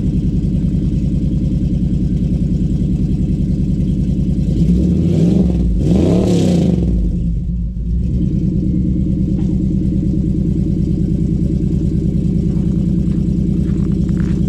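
Fuel-injected LS V8 in a 1957 Chevy idling shortly after a cold start in extreme cold. About five seconds in it is revved once, the pitch rising and falling back to a steady idle over about three seconds.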